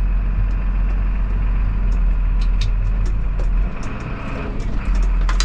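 Engine idling with a steady low hum that drops away for about a second near the middle, with scattered short clicks and knocks over it and a sharper knock near the end.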